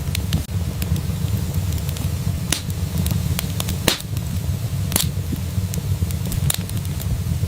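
Wood fire crackling in a fireplace: a steady low rumble of flames with scattered sharp pops, the two loudest about four and five seconds in.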